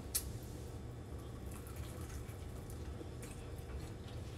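A person biting into a piece of battered fried chicken: one short crunch a fraction of a second in, then faint chewing, over a steady low hum.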